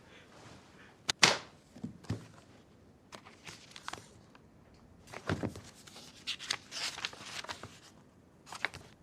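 Quiet handling sounds: a sharp knock about a second in, then scattered rustling and light clicks, with another short rustle near the end.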